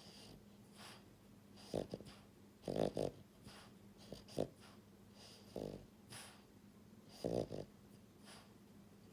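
French bulldog puppy snoring in her sleep: a run of short, fluttering snores about every second and a half, the loudest near the middle and toward the end.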